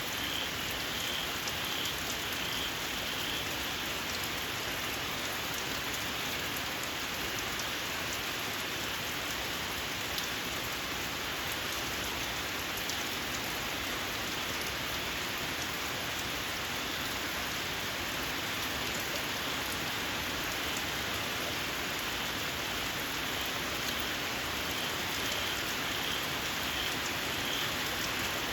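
Steady rain falling. In the first few seconds and again near the end there is a small frog calling through it: a run of short, high, repeated calls, about two a second.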